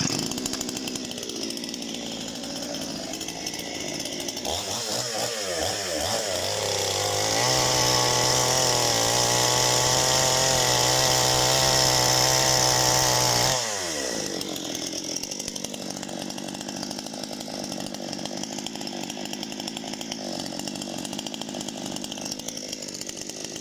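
Parma BP-058 two-stroke petrol chainsaw starting up and idling, then revved up to full throttle and held for about six seconds before dropping back to idle.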